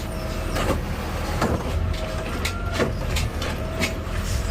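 Garbage truck engine running with a steady low rumble, with a mid-pitched whine coming and going and a series of irregular sharp clanks and knocks, typical of the truck's arm handling a trash can and emptying it into the hopper.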